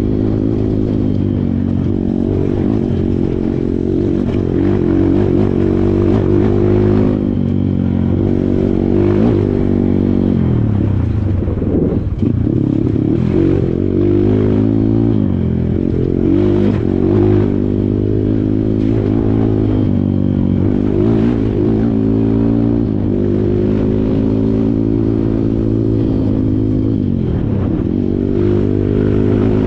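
Kawasaki KLX140 dirt bike's single-cylinder four-stroke engine running under load on a rough trail, its pitch rising and falling as the throttle is opened and closed, with deep drops about twelve seconds in and near the end. Rattling from the bike runs under the engine.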